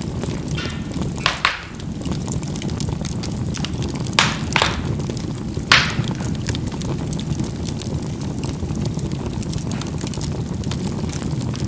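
Charcoal burning in a fireplace: a steady low rumble of flame with fine continuous crackling, and sharp pops as the coals burst, a cluster of about five in the first six seconds.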